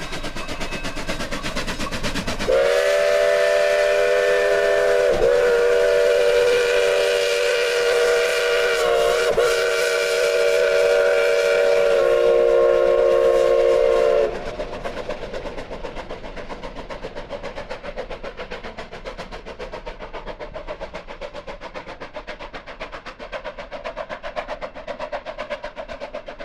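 Narrow-gauge steam locomotive's chime whistle blowing one long blast of several notes together, dipping briefly twice and dropping to a lower chord before cutting off about halfway through. The train runs by throughout with a rapid, even rhythmic beat.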